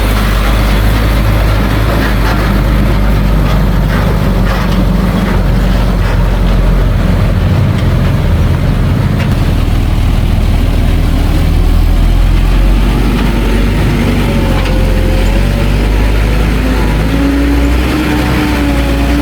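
Heavy diesel engines of earthmoving machinery running steadily at a work site, with a few knocks in the first few seconds. Over the last several seconds a pitched whine rises and falls as an engine works harder.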